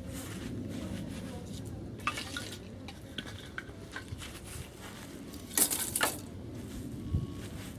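Cookware being handled: light clinks of utensils against a pot, then a brief louder scrape about five and a half seconds in.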